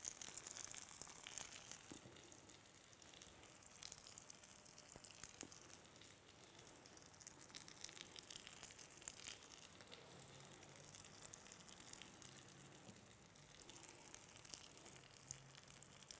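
Faint, steady sizzle of an egg omelette frying in a pan, with small scattered crackles.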